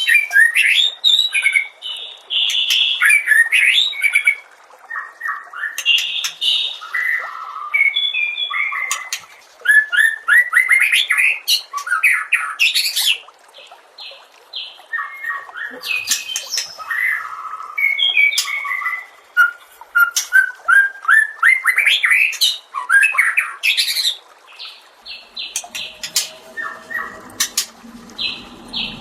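White-rumped shama (murai batu) singing a long, varied song: loud whistled phrases, rising and falling glides and fast trills, broken by short pauses. Near the end, lower-pitched repeated notes come in.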